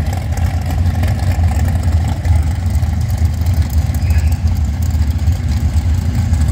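Drag cars' engines idling at the start line: a steady, loud, low engine note that flutters unevenly, with no revving.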